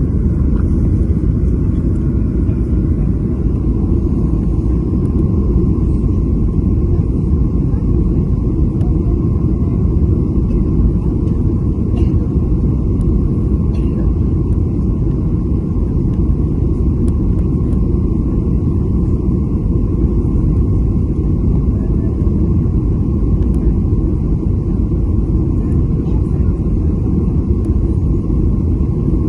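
Steady low rumble inside an airliner's cabin: engine and airflow noise running evenly, with a faint steady hum above it.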